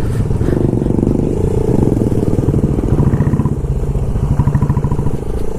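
Motorcycle engine running while riding, a steady pulsing low exhaust note.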